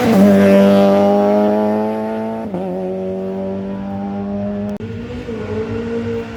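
Rally car engine held at high revs with a steady pitch. The pitch steps down at the start and again about two and a half seconds in, and there is a brief dip near five seconds. It is loudest in the first two seconds.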